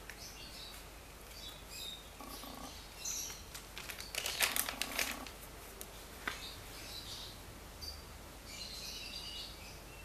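Small birds chirping intermittently in the background, with a short burst of crinkling rustles about halfway through and a single click a little later, over a faint steady hum.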